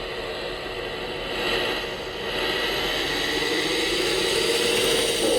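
RC model truck's brushless crawler motor and gear drivetrain whirring, a steady whine over gear hiss that gets louder and rises in pitch about halfway through as the truck speeds up.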